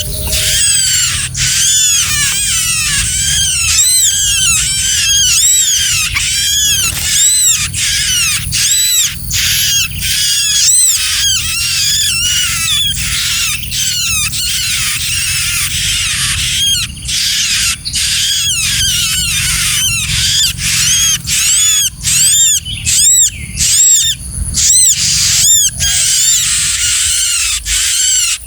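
Small birds, bar-winged prinias (ciblek), giving a dense, unbroken stream of short, high, rapid chirps, typical of small birds calling at feeding time.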